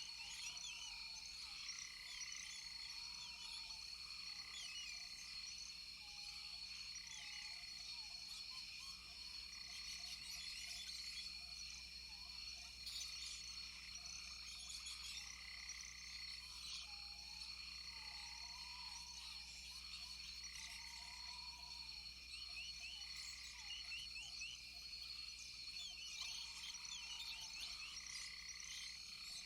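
Rainforest chorus of frogs and insects: a steady high-pitched drone, a pulsing call repeating about once a second, many short chirps, and now and then a lower arching call.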